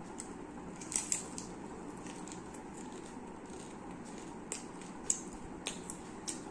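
Close-up eating sounds of a person chewing a big fried prawn: soft mouth noises broken by about eight sharp, irregular crunches and crackles.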